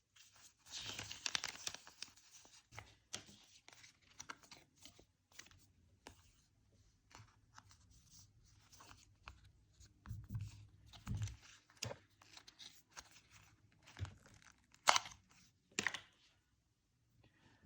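Packaging and a paper user manual being handled: rustling and crinkling, with scattered light clicks. There are a few soft knocks about ten seconds in and a sharp click near fifteen seconds.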